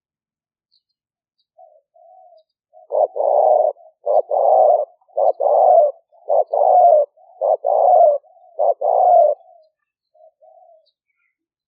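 Spotted dove cooing, a decoy bird's lure call: a few soft notes lead in, then six loud coos in even succession, each opened by a short clipped note, and it trails off in a couple of soft notes.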